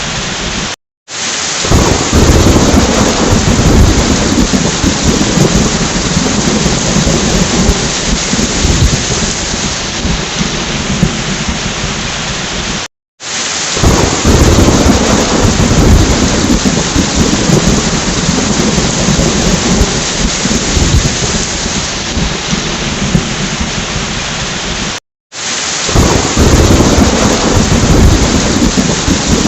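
Steady heavy rain with rolling thunder. The loop repeats about every 12 seconds. Each repeat follows a brief drop to silence and opens with a louder low rumble.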